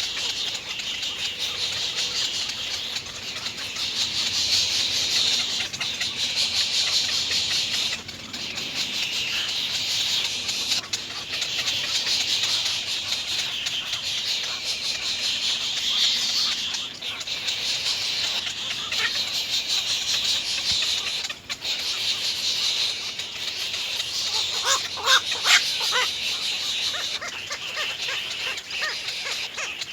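Little egret nestlings giving a continuous, rapid, high-pitched chatter of begging calls. About 25 seconds in comes a brief run of louder, lower calls.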